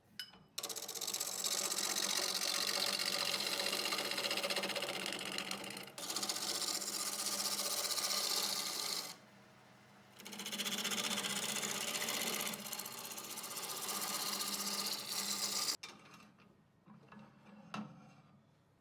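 An electric power tool running under load on wood, a steady loud mechanical noise with a hum. It runs in two stretches with a pause about nine seconds in, then cuts off sharply near the end, leaving a few light clicks.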